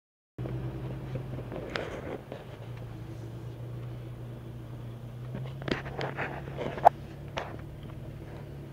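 Jeep's engine running steadily at low speed while crawling a rough dirt trail, heard from inside the cab. A few sharp knocks and rattles come from the body and gear over the bumps, mostly a little past halfway.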